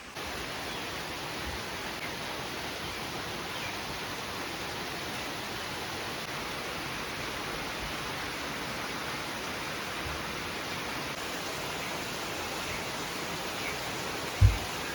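Steady rain falling, an even hiss, with a short low thump near the end.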